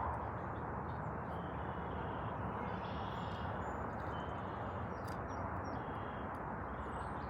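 Steady outdoor background noise with a few faint bird chirps over it.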